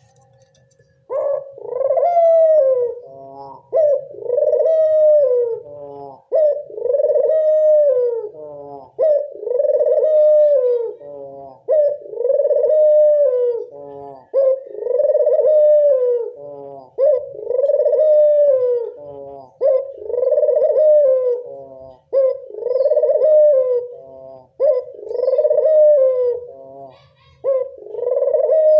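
Local puter dove cooing: after about a second of quiet, a drawn-out coo repeated steadily, about one every two and a half seconds, as a lure call to draw other puter doves to sing.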